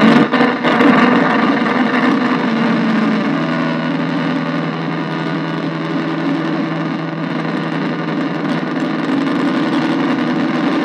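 Arturia MicroBrute analogue synthesizer and Casper Electronics Nova Drone, cross-patched into each other and played through a bass practice amp, making a dense buzzing noise drone. It stutters briefly a couple of times in the first second, then holds steady.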